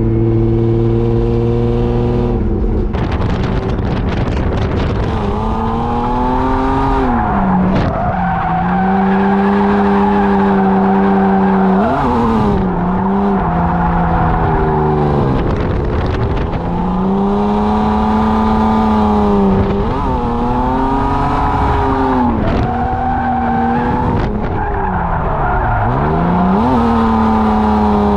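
BMW E36 drift car's engine revving hard, its pitch swinging up and down again and again as the throttle is worked through the drift. Tyre squeal runs under the engine.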